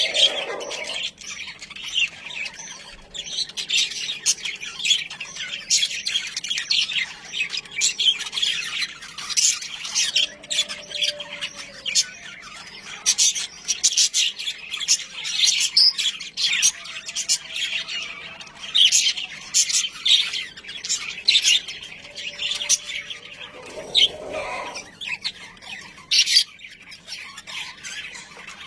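Budgerigars chattering, a rapid run of chirps and squawks.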